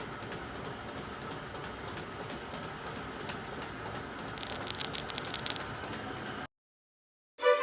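Low steady background hiss with a quick burst of rattling clicks about four and a half seconds in, lasting about a second, before the sound cuts off abruptly.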